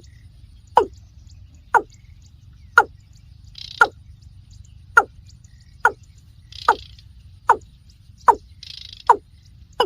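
Watercock calling: a string of short, sharp notes, each sliding down in pitch, repeated about once a second. A few brief hissy bursts come between them.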